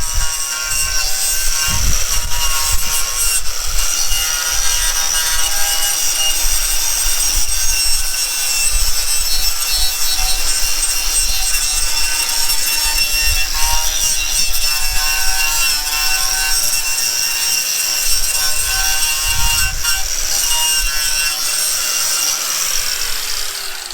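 A handheld high-speed power tool runs steadily, its abrasive pad or wheel grinding against metal to strip old orange gasket sealant off engine parts. It has a high whine over a rough scrubbing noise, and it winds down just before the end.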